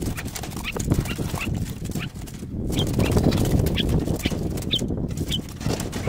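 Small birds giving scattered short, high chirps over a louder, rough low noise that fills the background.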